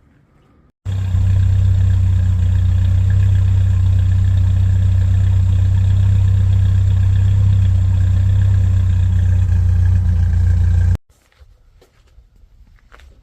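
1986 Jeep Cherokee Chief's engine running at a steady idle, a loud low drone that starts abruptly about a second in and cuts off suddenly near the end.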